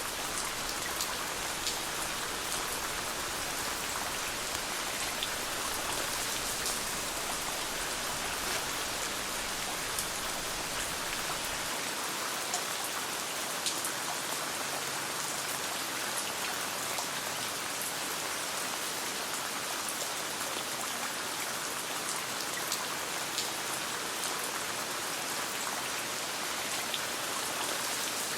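Steady rain falling, with scattered sharp ticks through it.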